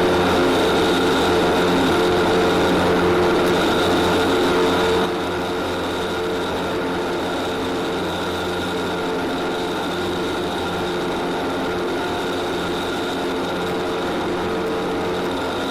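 Light aircraft's piston engine and propeller droning steadily in cruise flight, heard from the cockpit. The sound drops a little in level about five seconds in, then holds steady.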